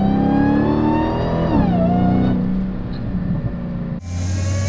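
Dodge Challenger SRT Hellcat's supercharged V8 accelerating under light throttle, its supercharger whine rising with the revs, then falling away about a second and a half in. Near the end the sound switches to a closer take from the engine bay, with a deep engine note and the whine rising again. A Legmaker aftermarket intake is fitted, which makes the supercharger whine louder.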